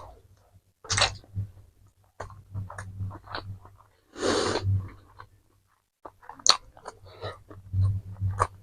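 Close-miked chewing and crunching of fast food, with irregular sharp clicks and bites, and one longer noisy rush about four seconds in.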